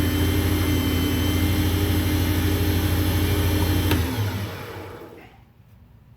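Motor of a WEN benchtop wood lathe with a 1/3-horsepower motor running at a steady speed, then switched off with a click about four seconds in and winding down, its hum falling in pitch and fading out.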